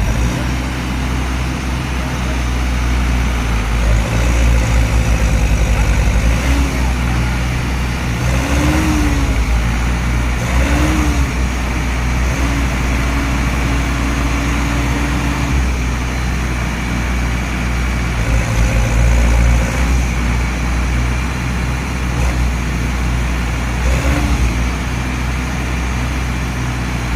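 Mahindra tractors' diesel engines running hard under load in mud, revving up louder about four seconds in and again near the twenty-second mark.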